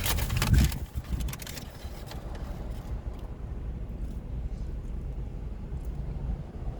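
Steady low rumble of a car, heard from inside the vehicle, after a short burst of crackling and clicks in the first second or so.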